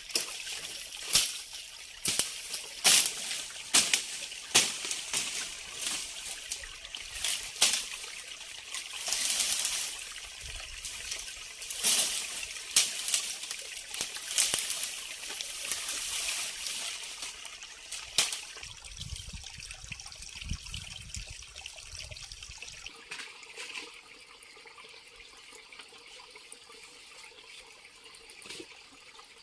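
Water trickling and splashing, with frequent sharp clacks through the first eighteen seconds or so, then a quieter, steadier trickle.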